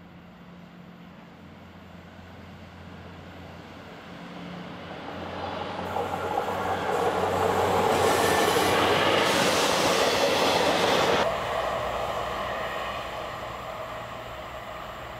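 MÁV-START railcar approaching and passing close by: a low engine drone grows into loud wheel-and-rail noise as the cars go past. The noise cuts off abruptly about eleven seconds in, leaving a quieter, steady train sound.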